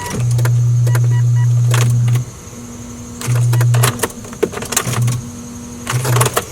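Car power-window motor running in start-stop runs: one long run of about two seconds, then three short bursts, with switch clicks and knocks between them. The motor works off a battery that is on charge.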